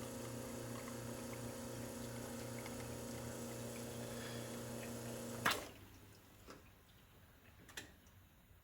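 Brasilia Portofino 3-group espresso machine's pump running with a steady hum while a shot is pulled, then stopping with a sharp click about five and a half seconds in as the brew is switched off. A few faint ticks follow.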